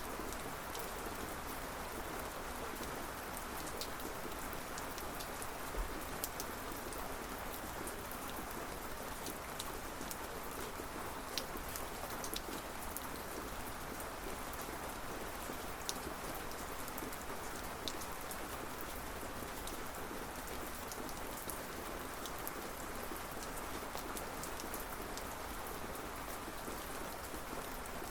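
Steady rain falling on a surface, a constant hiss with scattered sharper drop ticks.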